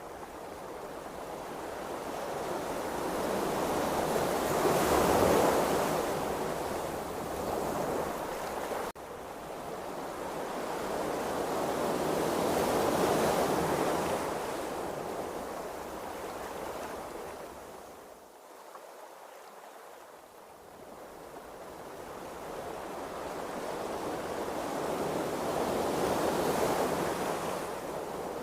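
Ocean waves and rushing sea water, rising and falling in three slow swells, with a sudden brief drop in the sound about nine seconds in.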